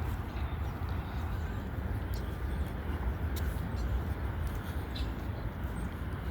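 Norfolk Southern freight train rolling past, a steady low rumble of the train with faint clicks from the wheels and rails.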